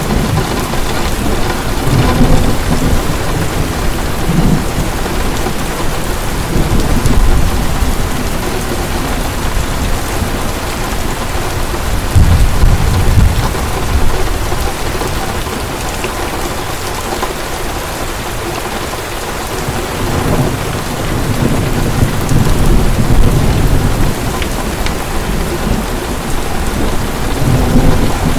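Heavy rain falling steadily, with low rolls of thunder swelling and fading several times; the strongest rumble comes a little before halfway.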